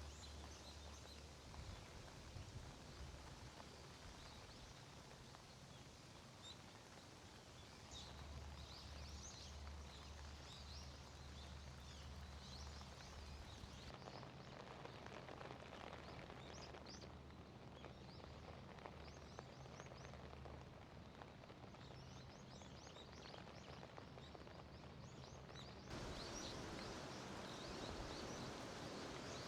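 Small birds chirping over faint outdoor ambience: many short, high chirps scattered throughout.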